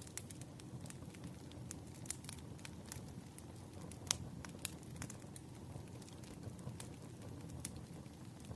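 Wood fire crackling: a steady low rumble of burning logs with sharp, irregular pops, the loudest about four seconds in.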